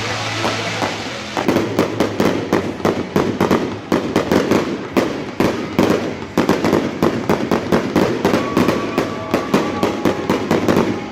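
Fireworks display: a rapid, irregular barrage of bangs and crackling pops, starting about a second in and keeping up without a break.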